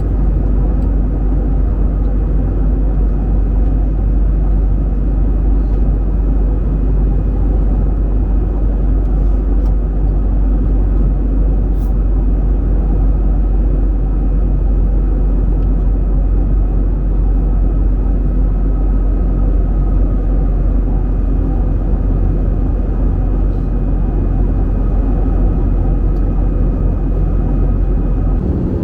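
Airbus A320 cabin noise: a steady, loud deep rumble of the jet engines and rushing air, with a faint steady high whine above it.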